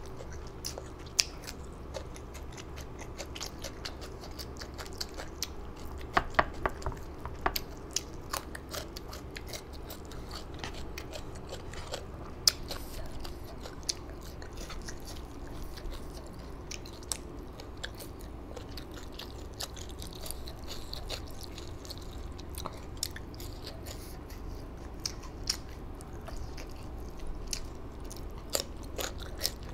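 A person chewing and biting food close to the microphone, with many irregular sharp, crunchy clicks and smacks, over a steady low hum.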